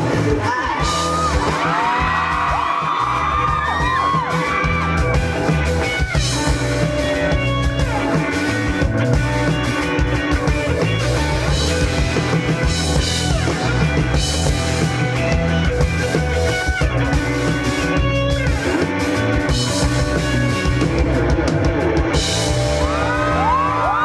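Live rock band playing: electric guitar, bass guitar and drum kit, with some singing and sliding guitar or vocal lines near the start and end.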